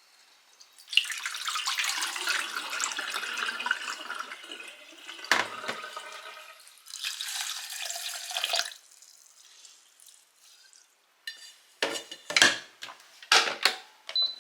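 Kitchen tap running into a sink for about four seconds, then a sharp knock, then the tap running again briefly. Near the end come a few sharp knocks and clinks of dishes being handled.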